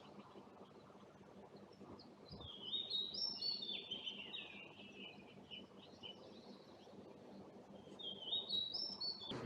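A songbird singing two phrases of quick, stepped high notes, the first about two seconds in and a shorter rising one near the end, over a steady low background hum.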